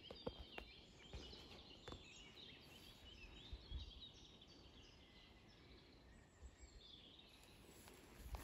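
Faint birdsong: several small birds chirping and twittering over a quiet outdoor background, with a few soft clicks in the first two seconds.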